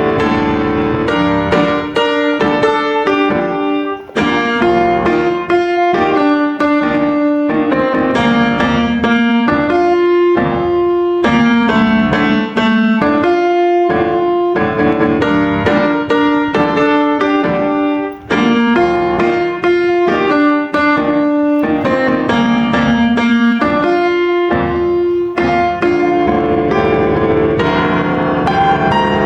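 Background piano music: a steady stream of struck notes with sustained chords, no voice.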